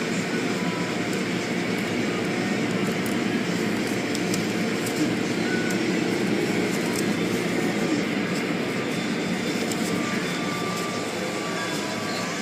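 Automatic car wash equipment running with a steady, even rush of noise.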